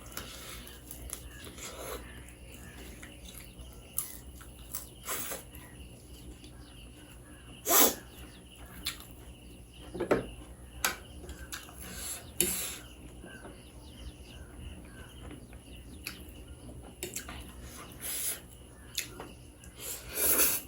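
Close-up eating sounds: irregular chewing and mouth noises of spicy ramen and side dishes, with several short, loud slurps, the loudest about eight seconds in and near the end.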